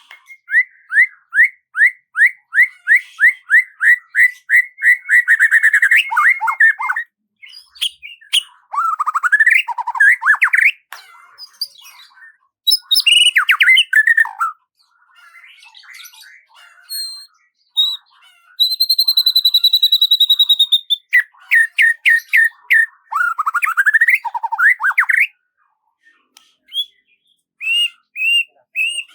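Birds singing and calling: a long run of quick, repeated rising notes, then varied warbling phrases and one long, steady whistled note about two-thirds of the way through.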